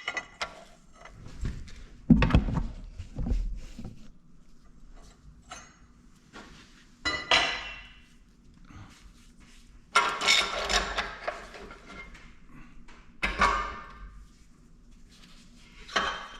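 Intermittent metal clunks, clinks and scrapes as a liner puller and a freshly pulled Detroit Diesel 4-53 cylinder liner are handled, with the loudest knocks about two seconds in and around ten seconds in.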